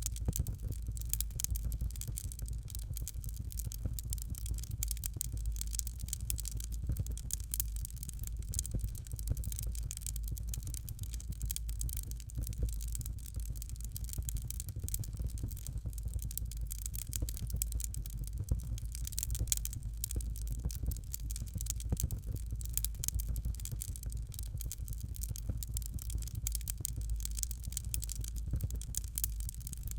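Fireplace fire crackling continuously, a dense scatter of small pops over a steady low rumble.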